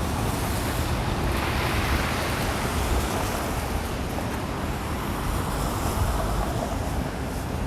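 Downtown street traffic on a snowy road: steady tyre hiss, with one vehicle swelling past about two seconds in, over wind rumbling on the microphone.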